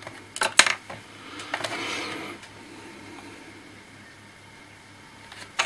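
Handling noise from an old laptop's plastic casing being worked on by hand: a few sharp clicks and knocks about half a second in, a scraping rustle around two seconds in, and more clicks near the end.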